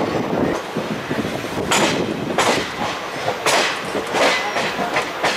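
Indian Railways passenger express in motion, heard from an open coach door: a steady rumble of the running coach with about six sharp, unevenly spaced wheel clacks over track joints and points in the second half.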